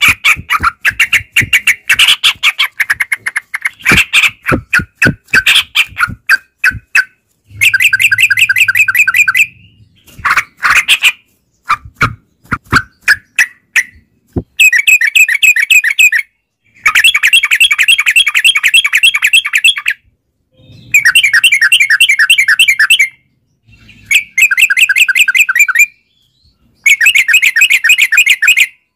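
Yellow-vented bulbuls singing: scattered short chirps at first, then about six bursts of fast, bubbling repeated notes, each about two seconds long, in a rapid rolling song.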